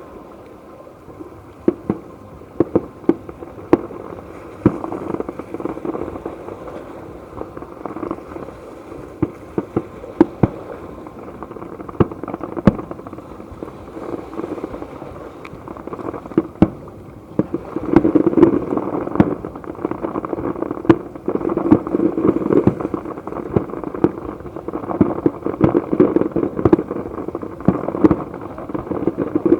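Fireworks display: aerial shells bursting in a run of sharp bangs and crackles, which grow denser and louder a little past halfway.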